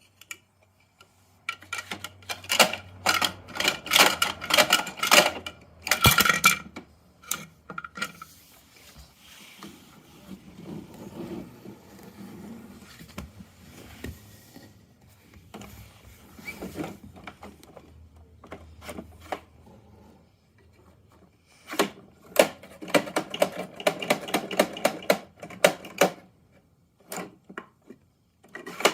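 Plastic toy garbage truck being handled: two long spells of rapid clicking and rattling, with quieter scraping and rolling between them and a few single clicks near the end.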